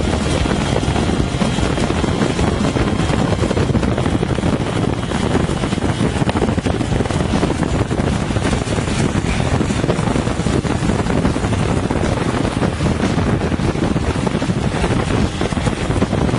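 Heavy, steady wind buffeting on the microphone of a motorcycle riding at speed, with vehicle noise mixed in.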